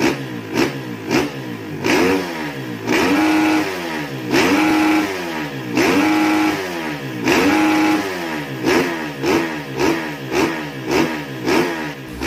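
Kawasaki KLX dirt bike's single-cylinder four-stroke engine, bored up to 200cc, being revved in the stand with the throttle. There are quick blips about twice a second at first, then four longer revs each held for about a second, then quick blips again toward the end.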